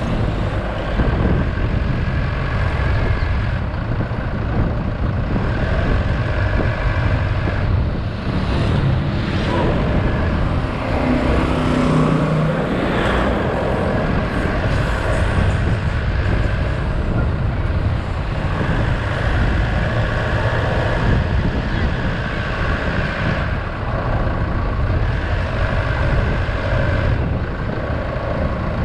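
Road vehicle on the move through traffic: steady engine and road noise.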